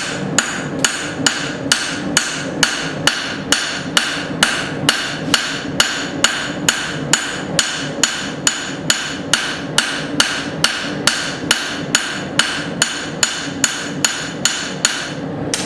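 A light hand hammer of about 2 pounds striking hot steel on an anvil in a steady rhythm, about two blows a second, each blow ringing, as a taper is drawn out on an axe billet.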